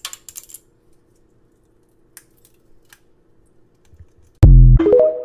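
A parrot's beak cracking and nibbling a pistachio shell: a cluster of crisp clicks at the start, then a few scattered single clicks. Near the end a sudden, very loud low-pitched tone cuts in and drowns everything else.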